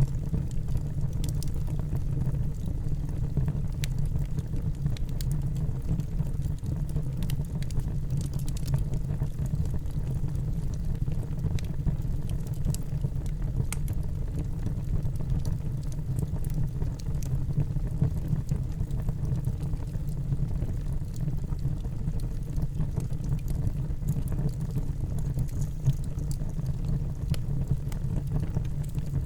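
Wood fire burning in a fireplace: a steady low rumble of the flames with scattered faint crackles and pops.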